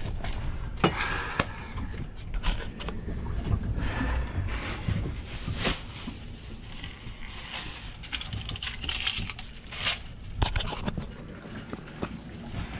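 Irregular clicks, knocks and clatter, a few sharp ones standing out, over a steady low rumble of wind noise.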